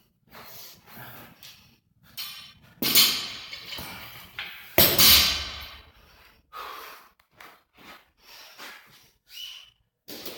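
Barbell and bumper plates clanking and thudding in a gym as weights are handled, with two heavy impacts about three and five seconds in and smaller knocks between them.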